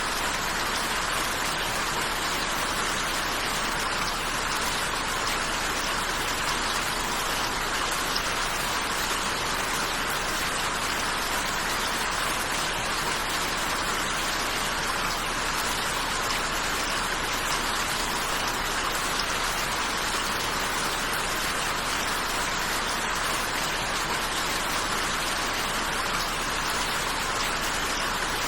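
Steady rainfall, an even hiss of drops with no change in strength.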